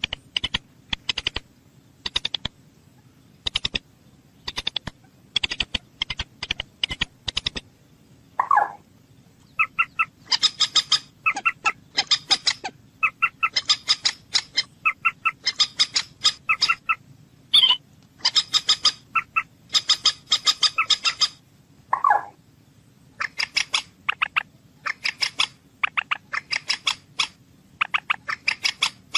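A bird calling in rapid series of short, sharp notes, each series broken by brief pauses. Twice it gives a single lower, drawn-out note.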